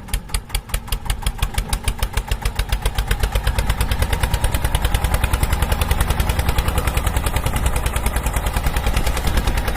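Engine running at idle with an even thumping beat, about nine a second, growing a little louder over the first few seconds.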